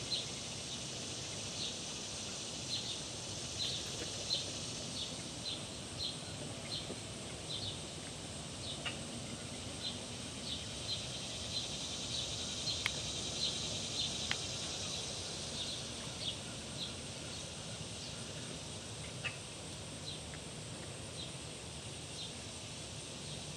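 Outdoor ambience: a short, high chirp repeating about twice a second over a steady high hiss, the chirping stopping a little after two-thirds of the way through, with a few faint clicks.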